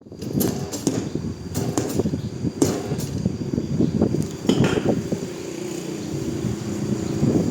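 Irregular metal knocks and clinks over a rumbling clatter, like tools being worked in a workshop.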